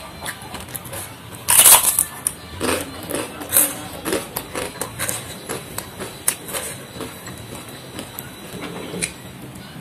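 Close-miked eating of a crispy fried cracker: a loud crunch about one and a half seconds in, then a run of smaller crunches and wet mouth clicks as it is chewed, thinning out toward the end.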